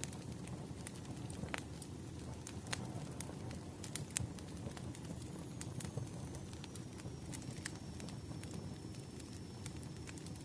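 Wood fire crackling: a steady low rush with scattered sharp pops and snaps.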